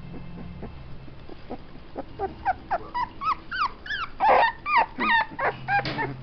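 17-day-old puppies whimpering and yelping, a run of short rising-and-falling high cries that starts about two seconds in and grows louder toward the middle.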